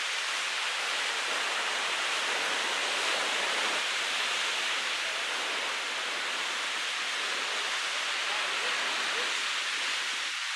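Steady, even rushing of strong wind together with heavy surf from a very active ocean, a constant hiss with no distinct wave breaks.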